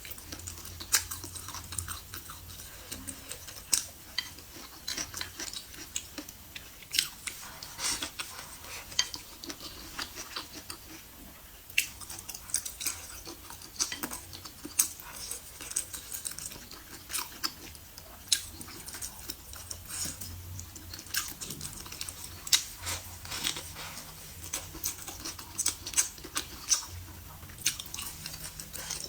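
A person chewing and biting food with the mouth near the microphone: frequent, irregular crunchy clicks and smacks.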